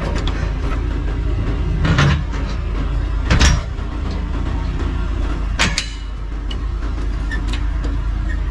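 Tow vehicle's engine running with a steady low rumble, with three sharp knocks or rattles about two, three and a half and five and a half seconds in.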